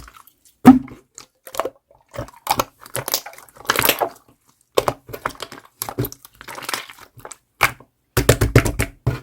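Clear slime being squished and poked by hand: a string of sticky pops and clicks, with a quick burst of pops near the end.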